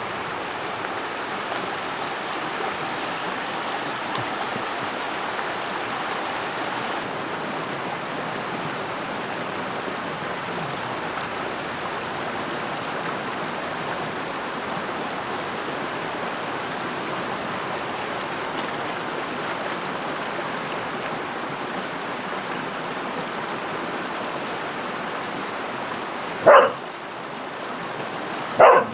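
Creek water flowing steadily, then a dog barks twice near the end, two short loud barks about two seconds apart.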